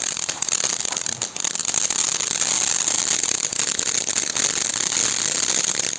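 Red and green ground fountain firework burning: a steady, loud, high hiss peppered with dense fine crackling.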